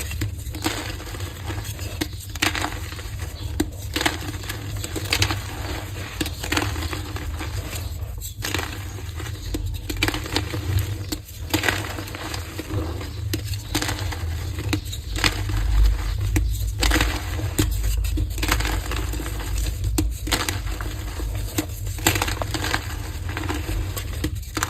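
Colourful heart-shaped blocks of gym chalk being crushed and crumbled, a steady run of crunches and crackles.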